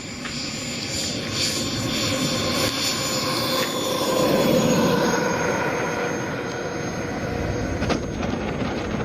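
A jet aircraft's engine passing, a rushing noise with a thin high whine that swells to a peak about halfway through and then eases off.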